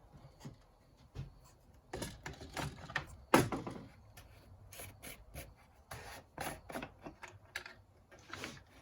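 Irregular short scrapes and clicks of chainsaw parts and hand tools being handled during reassembly, with the sharpest knock about three and a half seconds in.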